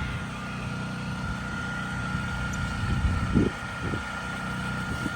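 An engine running steadily with a constant high whine over it, and a few low thumps about three seconds in.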